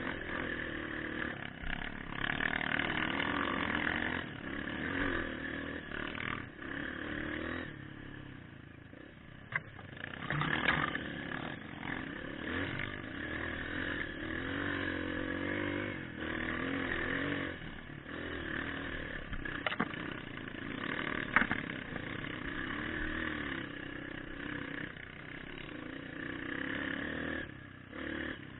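Motorcycle engine running and revving up and down as the bike rides a dirt trail, with a few sharp knocks along the way.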